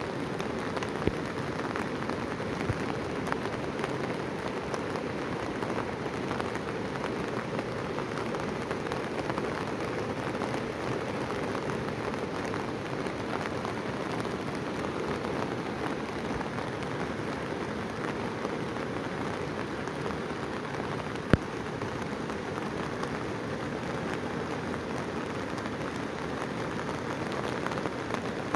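Steady, even rushing of heavy water throughout, with one sharp click about 21 seconds in.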